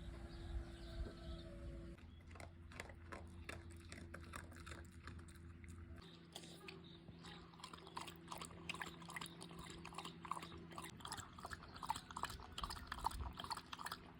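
Faint, rapid wet clicks of an animal's mouth at work, growing denser after about six seconds.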